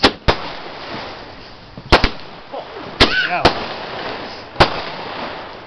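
Firework cake firing, its shells bursting overhead in about seven sharp bangs at uneven intervals, with a fading hiss between them.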